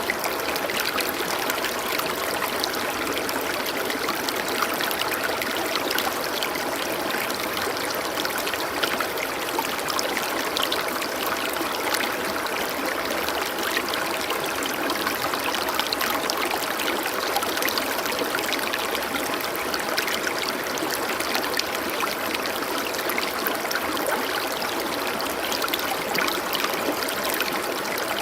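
Water running and trickling steadily, like a small stream, with many small splashes.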